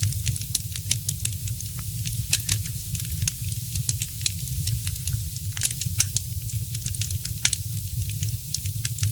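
Fireplace fire crackling: frequent sharp, irregular pops and snaps, several a second, over a low steady rumble.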